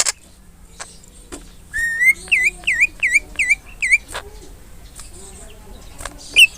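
Cucak ijo (greater green leafbird) singing: a rising whistle about two seconds in, then a quick run of about six repeated swooping whistled notes, and one more sharp note near the end.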